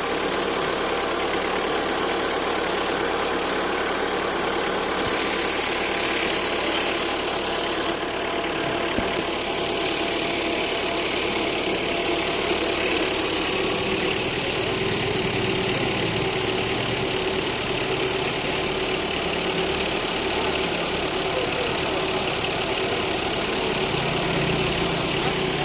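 Maruti Suzuki Ritz engine idling steadily during an engine carbon-clean, with a hiss over it.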